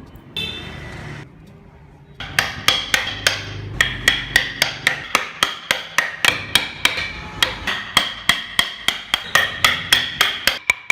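Hammer tapping a carving chisel into wood in a steady run of strikes, about three a second, each with a short ringing tone. A brief rasping noise comes before the tapping starts.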